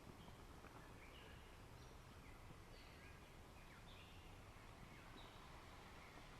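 Faint birdsong: short, high chirping notes repeated irregularly, roughly two a second, over a low steady background rush.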